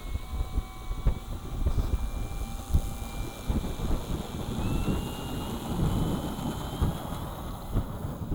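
Electric motor and propeller whine of a 72-inch Legacy Muscle Coupe RC plane on a 6S battery, a thin steady tone that climbs in pitch in the second half as the throttle comes up. Gusty wind buffets the microphone throughout and is the loudest part.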